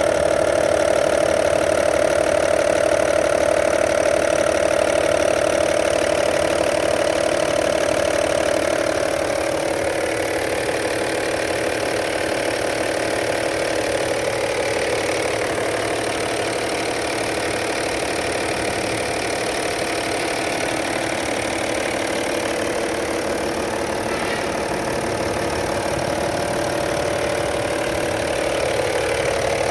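An engine running steadily, likely at idle, with its steady hum easing slightly about a third of the way through and picking up again near the end.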